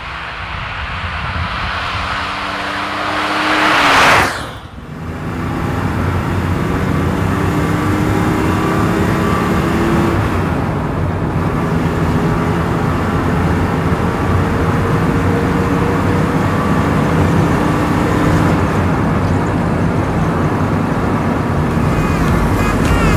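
A 1973 Porsche 911 Carrera 2.7 MFI's air-cooled flat-six with mechanical fuel injection. The car approaches and passes close by, and the sound swells to a peak about four seconds in, then drops off sharply. After that the engine is heard up close from the rear, pulling steadily with its pitch climbing slowly, and a gear change about ten seconds in.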